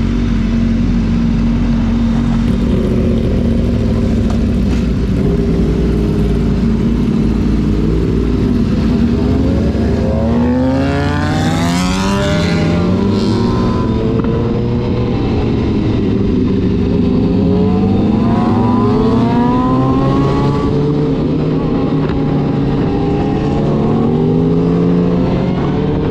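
Sport motorcycle engines at speed, revving up and down through the gears, with the highest and loudest rise and fall of revs about halfway through.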